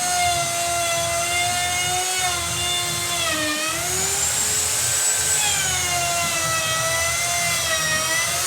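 Electric wood router running at high speed, a steady high whine. Its pitch dips sharply about three and a half seconds in, recovers, then slowly sags again toward the end as the bit is loaded by the cut.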